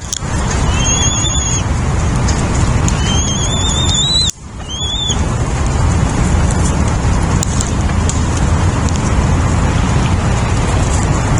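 Steady, loud rushing noise, with three short, high, slightly rising bird calls over it in the first half: one about a second in and two around four to five seconds in.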